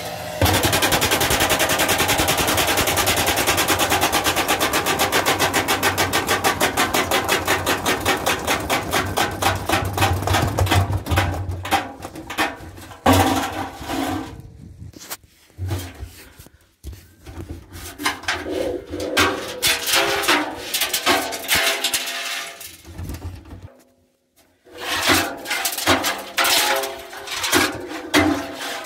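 Washing machine drum banging hard against the cabinet in a rapid, even stream of knocks that slowly gets slower, then irregular knocks and clattering with short pauses.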